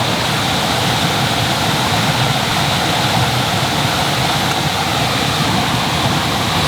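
Mountain stream rushing steadily, an even, unbroken rush of water.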